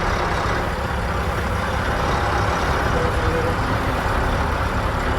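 Tractor-trailer's diesel engine running at low, steady revs while the rig reverses slowly into a parking spot.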